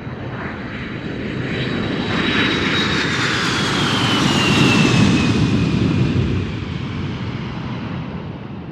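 Engine roar of an aircraft passing by: it swells up, peaks in the middle and fades away. A high whine falls in pitch as the aircraft passes.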